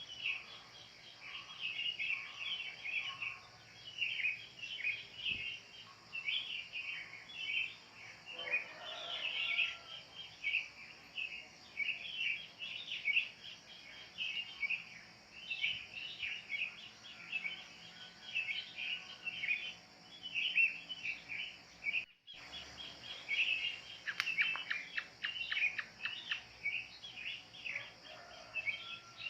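Wild kingfishers and sooty-headed bulbuls calling and chirping continuously over a steady, high insect buzz. The sound cuts out for an instant about three-quarters of the way through.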